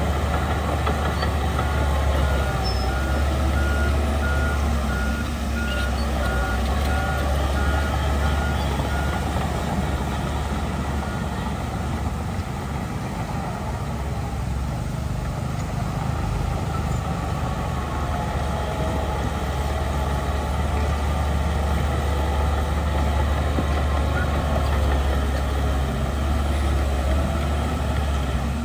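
Heavy diesel earthmoving machinery running, a deep steady engine drone with shifting load. A reversing alarm beeps steadily until about nine seconds in, then stops.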